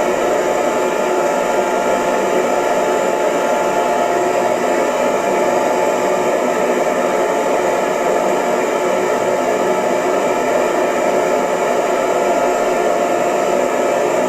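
Hair dryer running steadily, a constant whooshing blower noise with a faint steady motor whine.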